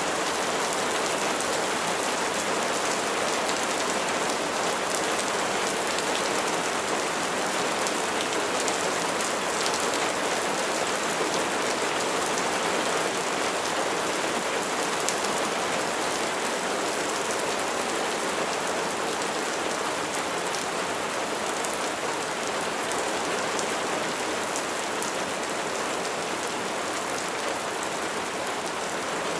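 Steady rain falling on a surface: an even, unbroken hiss of drops, with the faint ticks of single drops standing out.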